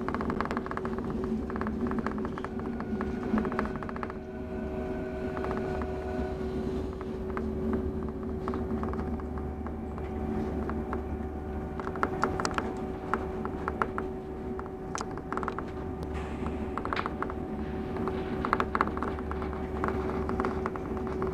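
Mont Blanc Express electric train running, heard from inside the passenger car: a steady low rumble and a constant hum, with clusters of clicks and rattles in the second half.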